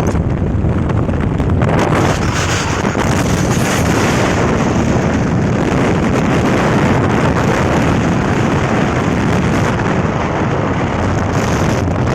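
Steady, loud wind rushing over the microphone while travelling along a road, with the running noise of the vehicle underneath.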